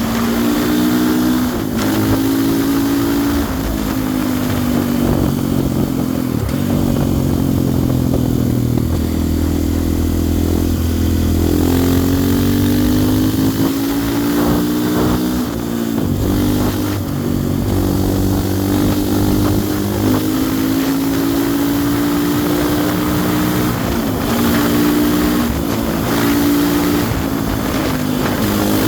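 GasGas ES500's single-cylinder four-stroke engine running under way, its pitch climbing and dropping back several times as the bike shifts up through the gears.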